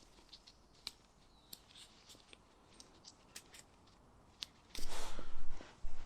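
Small hand tools and parts being handled: scattered light clicks and taps, then a louder scraping burst lasting about a second, about five seconds in.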